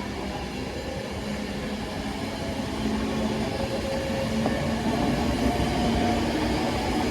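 Passenger train running through the station: a steady rumble with a low hum, growing louder over the first five seconds.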